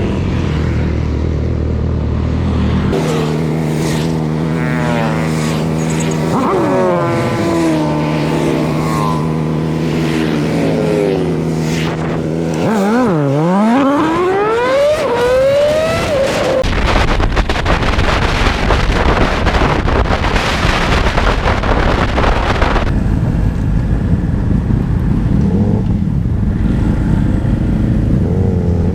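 Motorcycle engine running steadily, its pitch dipping and then climbing as it revs up a few seconds past the middle. After that, strong wind rumble on the microphone mostly covers the engine.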